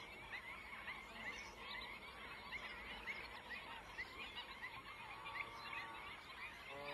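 Faint chorus of many small birds chirping and twittering, with one short pitched call about five seconds in.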